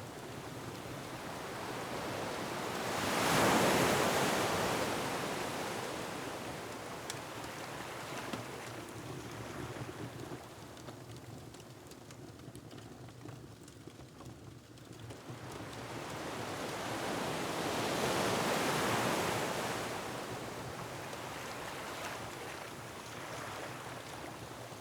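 Ocean surf with two large waves that swell and fall away about fifteen seconds apart, over a steady wind, and faint crackling from a wood fire underneath.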